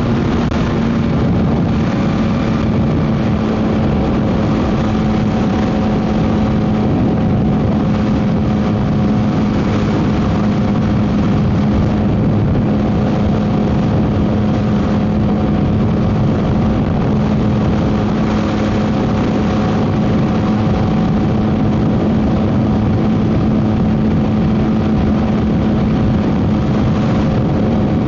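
Yamaha MT-09 SP's three-cylinder engine running through a Dominator GP aftermarket exhaust at a steady, unchanging cruise, heard from the moving bike under heavy wind noise.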